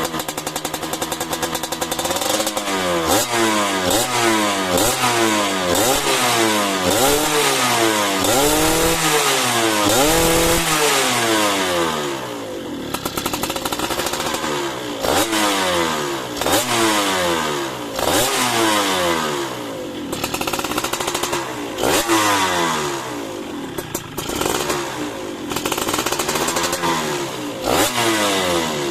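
Yamaha F1ZR's two-stroke single-cylinder engine, bored out with an oversize-0.50 RXS piston, being revved again and again through its exhaust: repeated quick rises and falls in pitch, with one longer, higher rev about a third of the way in.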